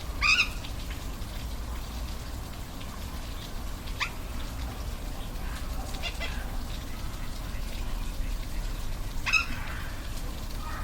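A waterfall rushing steadily, with about four short, sharp animal calls over it: one right at the start, others about four and six seconds in, and a loud one near the end.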